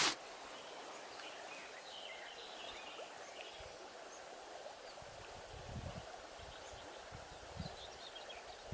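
Steady rush of a small river flowing over a shallow riffle, with faint bird chirps and a couple of soft low bumps.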